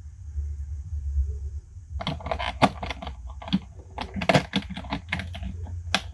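Toy packaging being handled: a dense run of sharp clicks and crinkles starting about two seconds in, over a low handling rumble.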